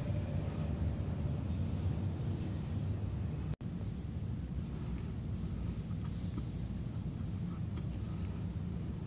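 Small birds chirping over and over, high and short, over a steady low rumble of room noise in a large empty warehouse. The sound drops out for an instant about three and a half seconds in.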